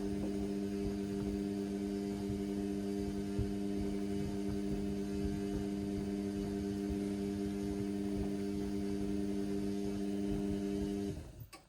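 Indesit washing machine running with a steady electrical hum, which cuts off suddenly near the end.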